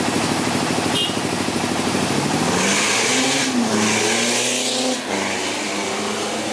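Car engine at a drag strip, running with a rapid pulsing rumble, then revved up about two seconds in with a loud rasp from the exhaust, dropping back to a steady faster idle for the last second or so.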